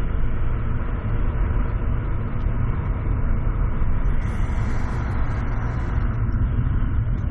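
Remapped turbocharged Seat Ibiza Bocanegra running, a steady deep engine and road rumble with no clear change in pitch; a faint high hiss shows briefly around the middle.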